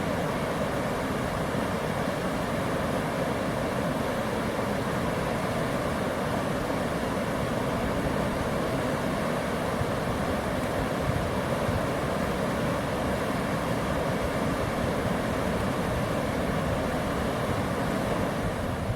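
Steady rushing of river water, an even, unbroken sound with no rhythm or change in level.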